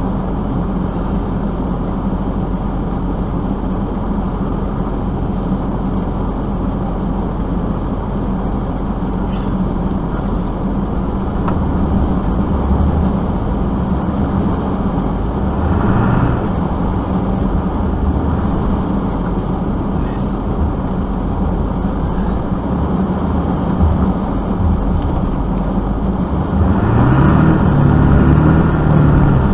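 Motor vehicle engine running steadily, revving up briefly about halfway through and again for a few seconds near the end, the last rev the loudest.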